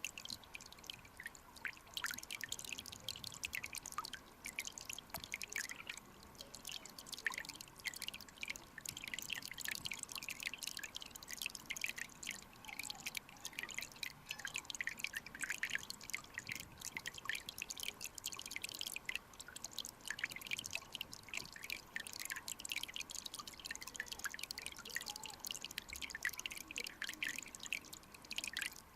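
Mountain stream water running, heard as a dense, irregular patter of small drips and bubble pops, mostly high-pitched and steady throughout.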